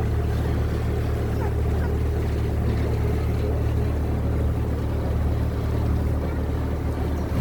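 Tour boat's engine running at a steady speed, heard on board as a low, even drone.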